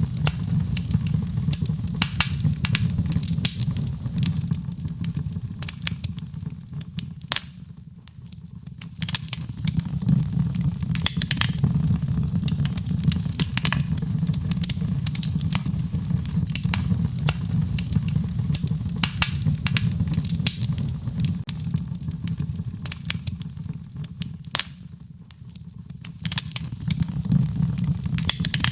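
Wood fire crackling in a fireplace: many sharp snaps and pops over a steady low rumble of flame. The sound thins out briefly twice, about a quarter and near the end of the way through.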